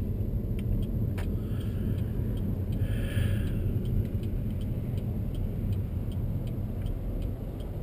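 Steady low rumble of a 2021 Chevy Malibu's cabin while driving: road and drivetrain noise. A faint, evenly spaced ticking runs through it.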